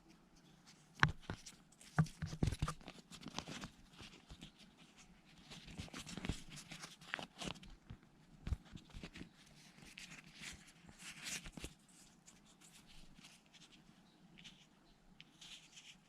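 Hands handling a phone and its packaging: a few sharp taps and clicks, then rustling and scraping like plastic wrap or film being handled and peeled.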